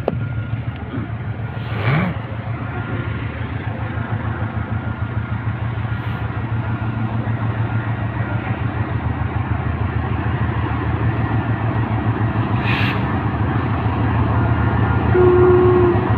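Diesel-hauled freight train running past with a steady low rumble and a fast, even pulsing, growing slowly louder. A short steady tone sounds near the end.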